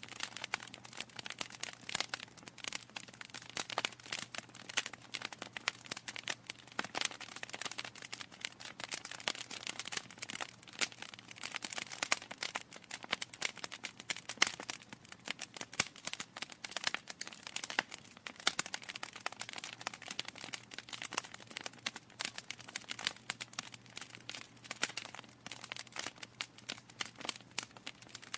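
Wood fire crackling: a dense, irregular run of small pops and snaps from burning logs, with a faint low hum beneath.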